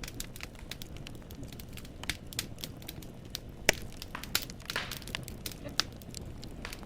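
Firewood burning in a fireplace, crackling with irregular sharp pops over a low, steady rumble. The loudest pop comes about halfway through.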